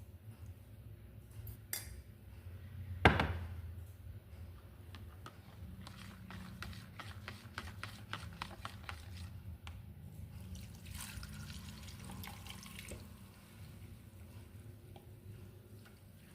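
Kitchen handling sounds: one sharp clank of a pot or utensil about three seconds in, then a run of light clicks and taps, and a short watery rustle, over a low steady hum.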